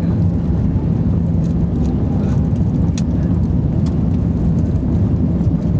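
Steady low roar of an airliner cabin in flight: engine and airflow noise with a constant hum under it. A single sharp click about three seconds in.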